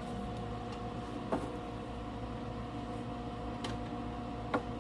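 MIG welder's cooling fan running with a steady hum, broken twice by a sharp click of the gun's trigger being squeezed, about a second in and near the end. No drive motor starts with the clicks: the trigger does nothing, a sign of the faulty trigger switch.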